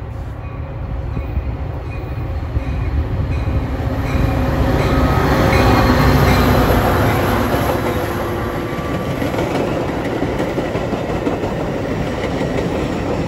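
Metra commuter train passing: the diesel locomotive's engine and rumble build to their loudest as it goes by about six seconds in, then the bilevel coaches follow with a steady rush of wheel noise and clicks over the rail joints.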